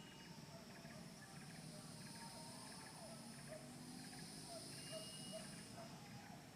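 Faint, steady high-pitched drone of insects such as crickets or cicadas, with faint short chirping calls underneath.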